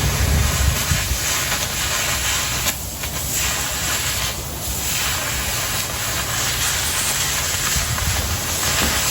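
Oxy-fuel cutting torch hissing steadily as it cuts through 1/4 inch plate, then stopping suddenly.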